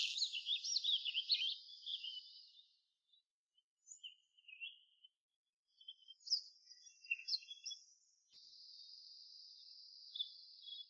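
Faint, high-pitched birdsong: quick warbling chirps in the first couple of seconds, scattered chirps after that, and a steady thin high trill over the last few seconds.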